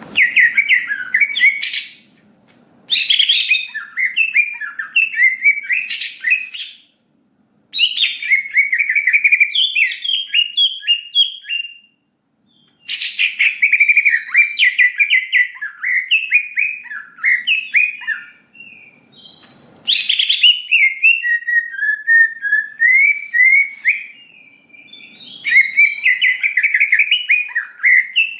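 Cucak ijo (green leafbird) singing a fast, varied song of chirps and whistles in long phrases of several seconds with short breaks, with a few sharp, very high shrill notes cutting in. This is the bird in full song, used as a lure recording to rouse other leafbirds into singing.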